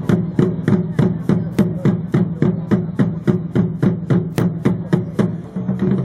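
Drums beating a steady rhythm, about three hits a second, each hit ringing with a short falling tone over a low steady hum.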